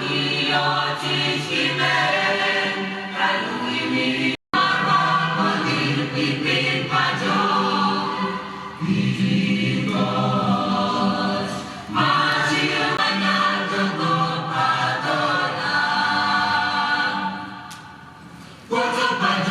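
A choir singing. The sound cuts out completely for a moment about four seconds in, and drops low for about a second near the end.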